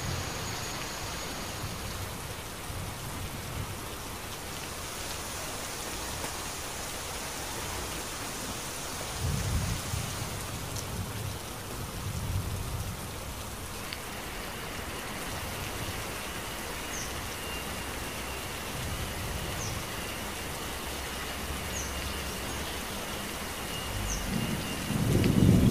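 Steady rain falling, with low rolls of thunder swelling about a third of the way in and again, louder, at the end. A thin steady high tone and a few short high chirps sound over the rain in the second half.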